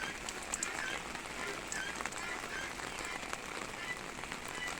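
Steady rain falling and hitting surfaces, with scattered sharp drop clicks.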